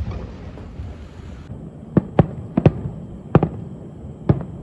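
Aerial fireworks bursting. A crackling rumble trails off over the first second and a half, then from about two seconds in comes a quick string of sharp bangs.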